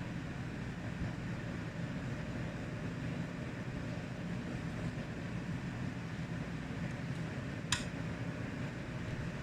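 Steady low background hum, with one sharp click near the end as small laptop parts are handled during reassembly.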